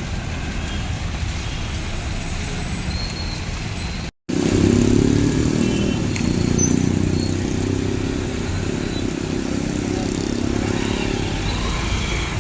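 Street traffic noise with motor vehicle engines running. It cuts out briefly about four seconds in, and then a louder low engine drone takes over.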